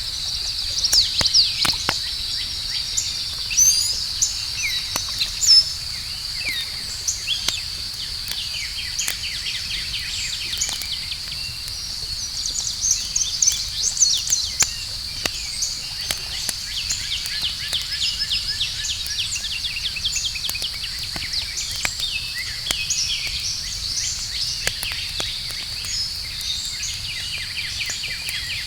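Campfire crackling with scattered sharp pops, over a steady high-pitched insect chorus and repeated bird chirps, the chirping busiest about halfway through.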